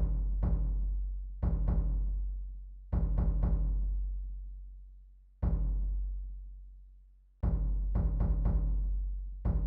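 Slow drum music of deep drums: clusters of two to four quick strikes, each cluster followed by a long booming ring that fades away before the next.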